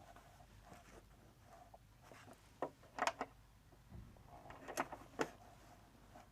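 A few faint, separate clicks and knocks, about four in all, from handling work at a sewing machine, with no steady stitching run.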